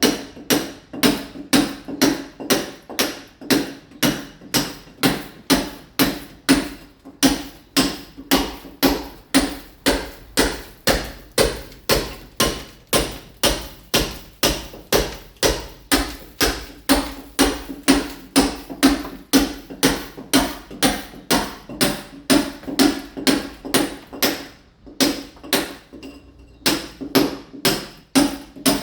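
Hammer blows on a masonry wall in a steady run of about two to three strikes a second, with two brief breaks near the end: a mason chipping the wall's surface to key it for ceramic tile.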